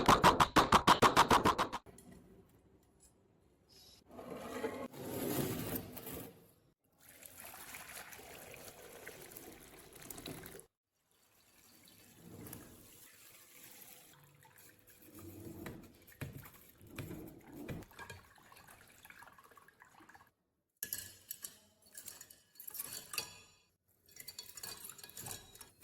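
Rapid, evenly spaced mechanical clicking for about the first two seconds. Then bursts of liquid sloshing and pouring as rusty typewriter parts are washed, with a few sharp clinks near the end.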